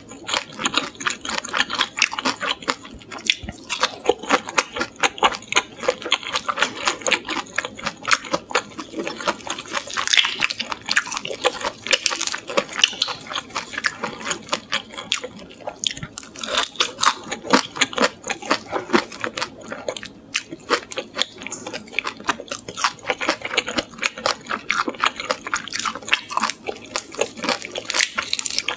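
Close-miked chewing of butter-fried shrimp heads: a dense, irregular run of wet mouth clicks and crunches.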